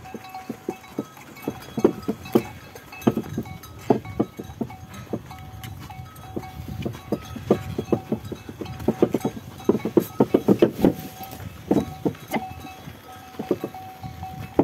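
Ox-drawn cart (cikar) on the move: a busy, irregular clatter of knocks from the cattle's hooves and the cart, with a faint steady high tone coming and going behind it.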